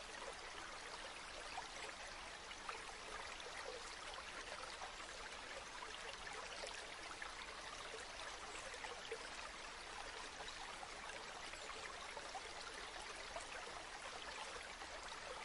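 River water running steadily: an even rush of flowing water with many small splashes and burbles through it.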